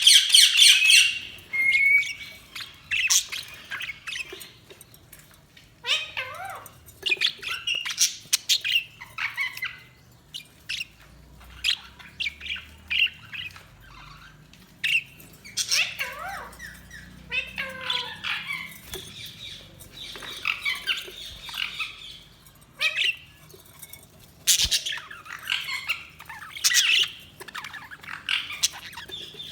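Budgerigars chirping, warbling and squawking in irregular bursts of busy chatter, with a loud squawk at the very start.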